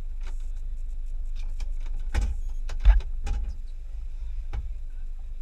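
Maruti Suzuki Gypsy's engine idling with a low steady rumble, while scattered clicks and knocks sound on the vehicle, and one heavy thump comes about three seconds in.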